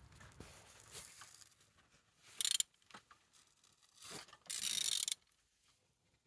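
Ratchet wrench clicking in two short spells, the second longer, as the crankshaft of a BMW N47D20 four-cylinder diesel engine is turned over by hand. The engine turns freely and is not seized.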